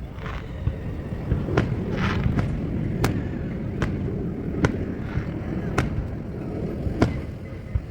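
Fireworks going off: sharp bangs at uneven intervals, roughly one a second, over a steady low rumble.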